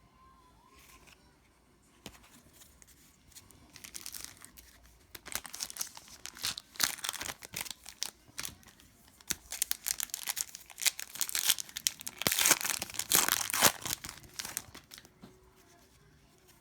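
An Upper Deck hockey card pack's wrapper being torn open and crinkled. The crackling starts a few seconds in, is loudest near the end, then stops.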